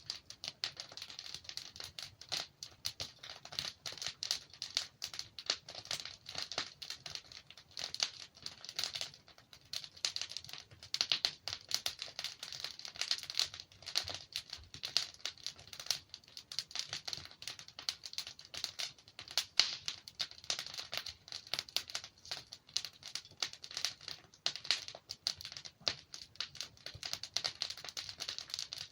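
Log fire crackling and popping: a dense, continuous run of small sharp snaps.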